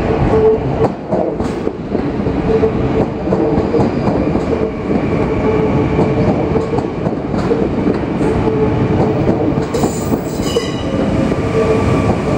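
Yellow-and-blue double-deck electric passenger train rolling past on the adjacent track, with wheels clattering over the rails and a steady motor hum. About ten seconds in, a high thin squeal of wheels on rail joins it.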